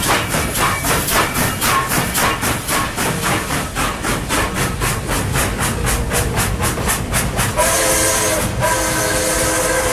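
Train sound effect: a running train with a rhythmic beat about four times a second. About three quarters of the way in, a whistle sounding a chord of several notes takes over, breaks off briefly once, then sounds again.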